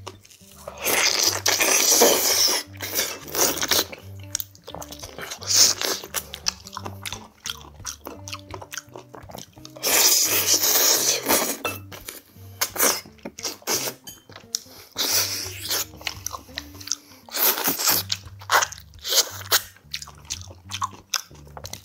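Close-up eating sounds of pork meat being bitten and chewed off the backbone pieces of gamjatang: loud mouth noises with many short clicks, and two long loud stretches about a second and ten seconds in. Soft background music with a repeating bass line plays underneath.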